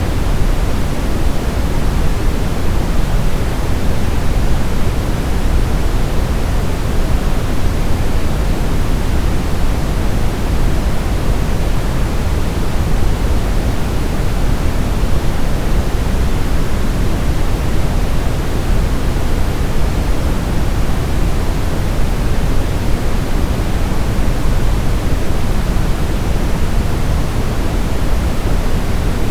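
Steady white-noise sleep sound: an even, unchanging hiss with most of its weight in the low end, closer to pink noise than to a bright white hiss.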